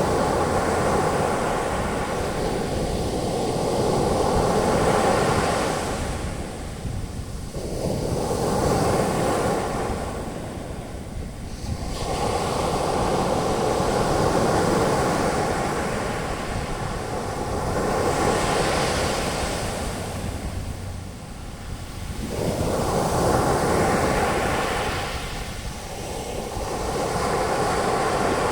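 Ocean waves breaking and washing up the beach as foam, a steady rushing surf that swells and fades every few seconds.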